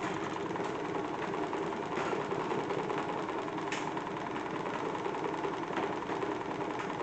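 Small electric fan motor running steadily, spinning a salad spinner rigged as a toy washing machine, with a few faint clicks.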